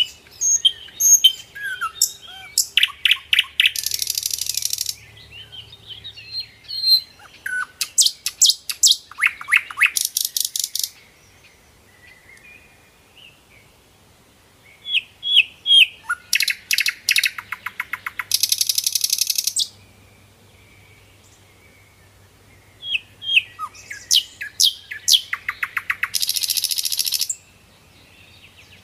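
A songbird singing: four song phrases a few seconds apart, each a run of quick high chirps ending in a rapid, buzzy trill.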